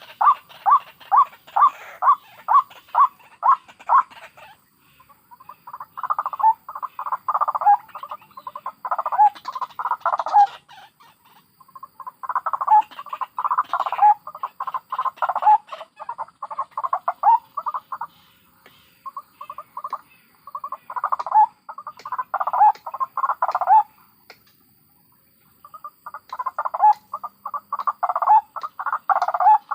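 White-breasted waterhens calling: a run of evenly spaced harsh notes, about three a second, stops about four seconds in. It is followed by bouts of rapid, harsh chattering calls separated by short pauses of a second or two.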